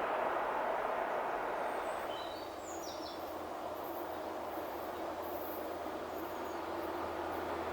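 Rumble of a passing electric train fading away as it recedes, dropping off about two seconds in. A few short bird chirps sound over it.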